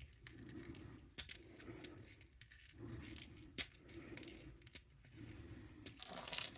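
Small glass beads clicking and rattling faintly as they are poured out and handled: light, irregular ticks.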